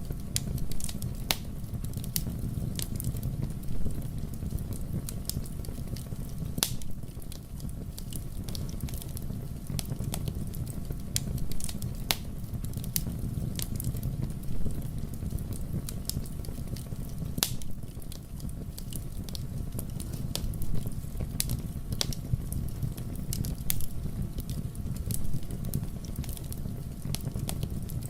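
Wood fire burning in a fireplace: a steady low rumble of flames with irregular sharp crackles and pops from the burning logs, a few standing out louder than the rest.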